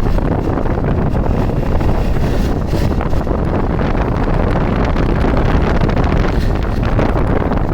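Heavy wind buffeting the microphone over a Hero XPulse 200 4V's single-cylinder four-stroke engine held steady at top speed.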